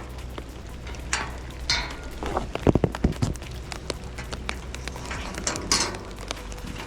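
Handling and movement noises: short rustles, and a quick run of sharp clicks and knocks just under halfway through, over a low steady hum.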